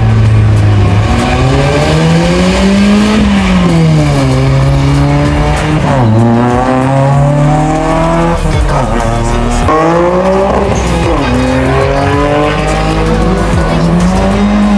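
A car engine revving hard, its pitch climbing and falling again several times, with a few sharp drops between climbs.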